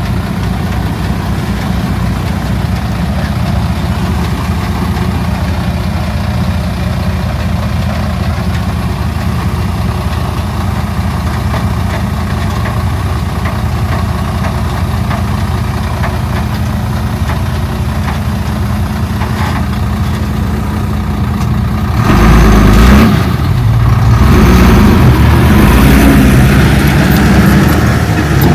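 Heavy diesel earthmoving machinery running with a steady low drone. About three-quarters of the way through it turns louder and harsher, as the machine works harder.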